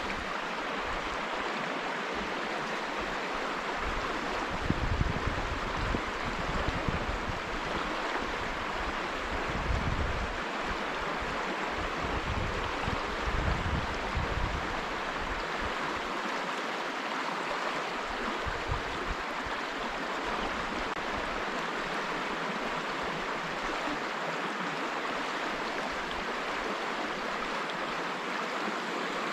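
Hoh River flowing: a steady rush of water, with a few low rumbles of wind on the microphone in the first half.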